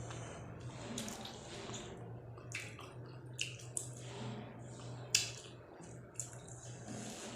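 Close-up wet eating sounds of dal and rice: moist squishing and chewing with several short sharp smacking clicks.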